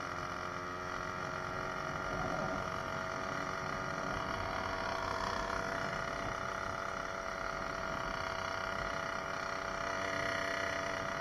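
66cc two-stroke motorized bicycle engine running at a steady speed under way, its pitch holding level.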